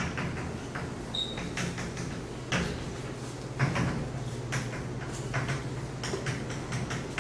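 Irregular short taps and scrapes, several a second, over a steady low hum of room equipment in a lecture room.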